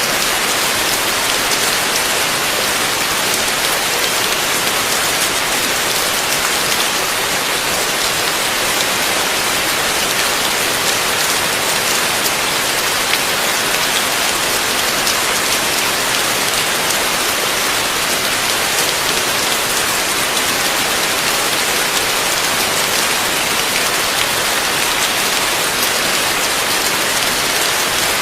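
Heavy rain falling steadily, a dense even hiss of drops with faint individual drop ticks.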